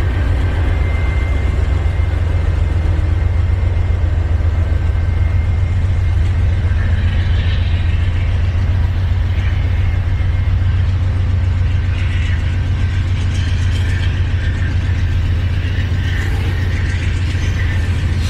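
Norfolk Southern freight train passing close by: a steady deep rumble from its diesel locomotives, with metallic squeaks and clatter from the wheels of the container well cars coming in over the second half.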